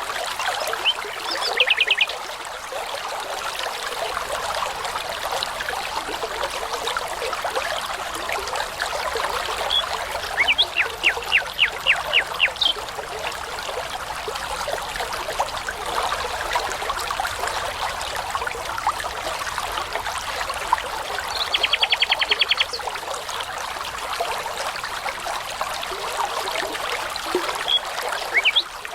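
A babbling brook runs steadily while a nightingale sings three short phrases of rapidly repeated notes, about two, eleven and twenty-two seconds in.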